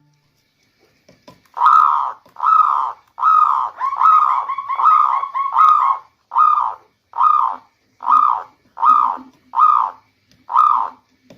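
Local zebra dove (perkutut) cooing: a rhythmic series of short coos, about one every 0.8 seconds, starting a second and a half in. A quick rolling run of shorter notes sits among them in the middle.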